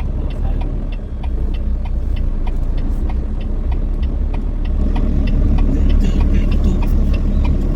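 Semi-truck running down the road, heard from inside the cab: a steady low engine and road rumble with a regular light ticking, getting a little louder about five seconds in.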